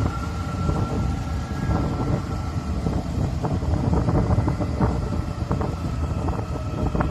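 Taiwan Railway train running past: a heavy low rumble with scattered clacks of the wheels over the rail joints and a thin steady whine.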